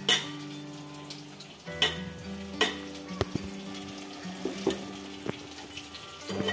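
Potatoes and okra sizzling in mustard oil in an aluminium pot as a ground spice paste is scraped in, with three sharp metal knocks of a ladle against the pot and jar and a few lighter clicks. Soft background music plays under it.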